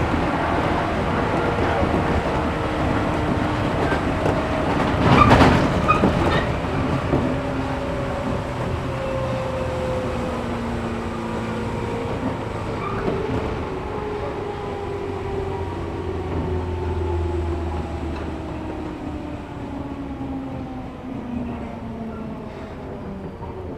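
Running noise of a 113 series electric multiple unit heard from inside the car. The motor and gear whine falls slowly in pitch as the train loses speed. There is a loud clatter about five seconds in.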